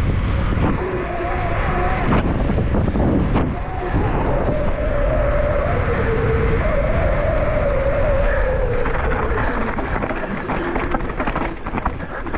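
Mountain bike descending fast: wind rushing over the microphone and the tyres and bike rattling on the trail, with a wavering whine through the middle and a clatter of knocks in the last few seconds.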